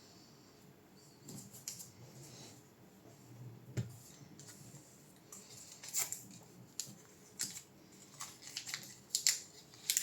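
Hands handling graphics-card parts and small tools: a run of sharp little clicks and taps with short light scraping sounds, thickening in the second half, and one dull knock about four seconds in.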